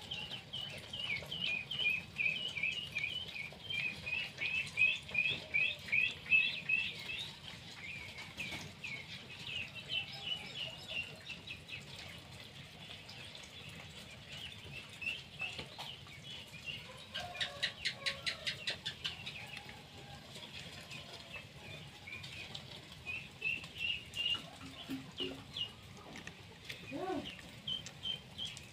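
Small birds chirping, many short high chirps in quick series at first and sparser later, with a brief fast rattle around the middle.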